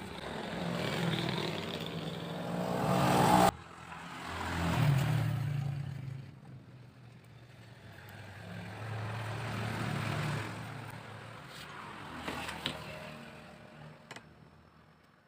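Motor vehicle engine sound swelling and fading a few times, as if passing, with an abrupt cut about three and a half seconds in.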